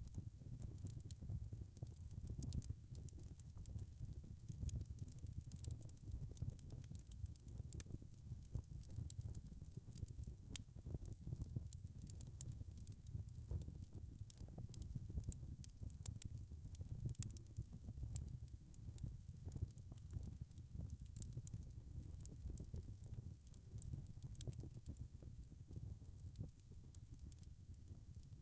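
Wood fire crackling steadily: many small, sharp pops scattered over a low rumble of the burning.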